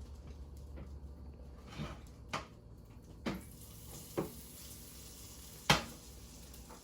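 Kitchen items being handled and set down: five short clicks and knocks a second or so apart, the last one, near the end, the loudest.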